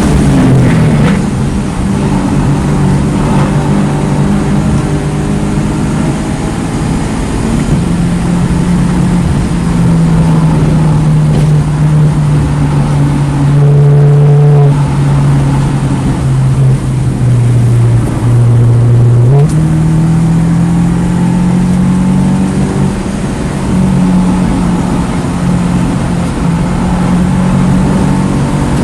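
2009 Mini Cooper S's turbocharged 1.6-litre four-cylinder engine under hard track driving. The note drops at the start, climbs slowly, then sinks for several seconds before jumping sharply back up about two-thirds of the way in. A steady rush of road and wind noise runs under it.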